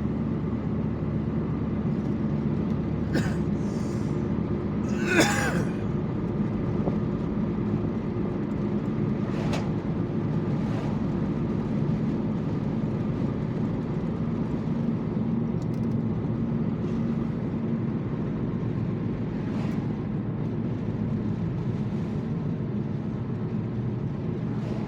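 Steady engine and road noise heard from inside a moving car, with a few short sharp clicks or knocks, the loudest about five seconds in.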